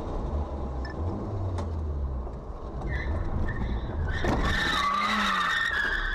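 Car engine and road rumble, then about four seconds in a sudden tyre squeal from a skidding car that wavers in pitch for about two seconds.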